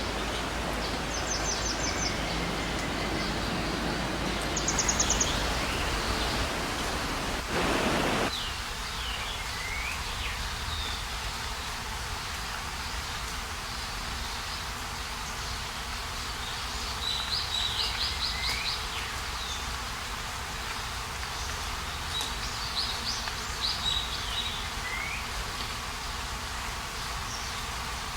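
Stream water running over rocks as a steady rush, with high chirping calls repeated every few seconds over it. About eight seconds in, a brief louder rush.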